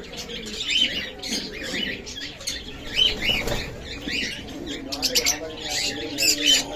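Pet birds chirping and calling over one another: many short, high chirps in quick succession.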